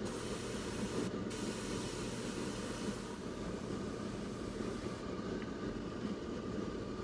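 Airbrush spraying paint with a steady hiss that breaks off briefly about a second in and stops about five seconds in, over a constant low machine rumble.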